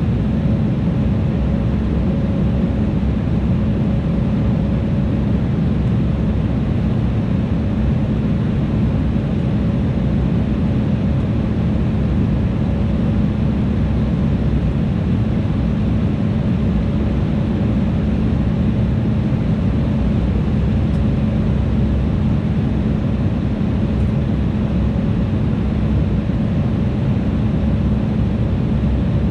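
Steady cabin noise of an Embraer E175 regional jet in descent: its twin wing-mounted turbofan engines and the rushing airflow make an unbroken low noise with a steady low hum.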